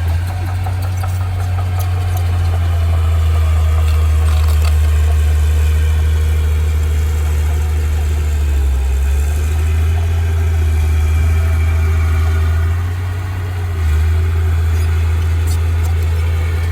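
Heavy diesel engine of earthmoving machinery running with a loud, steady low drone that dips briefly a little after the middle.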